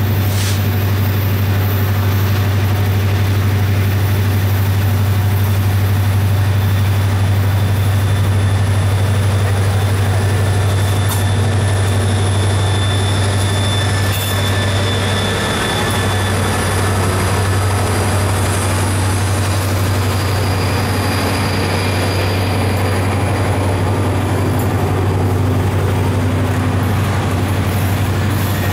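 Loaded coal hopper cars of a freight train rolling past, a steady low rumble of steel wheels on rail, with a faint high squeal from the wheels around the middle.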